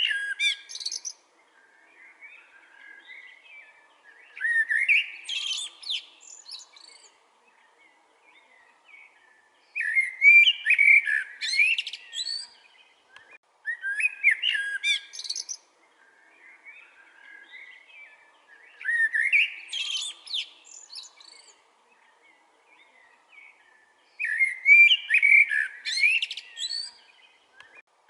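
Common blackbird singing: song phrases about every four to five seconds, each rising into a high twittering ending, with fainter song in the gaps between them.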